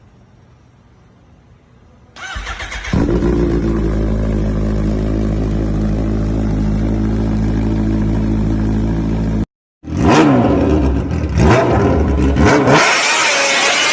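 Kawasaki Ninja H2's supercharged inline-four starting about two seconds in and settling into a steady idle. After a brief cut, the engine is revved up and down in quick blips, and near the end there is a loud hissing rush with a rising whine.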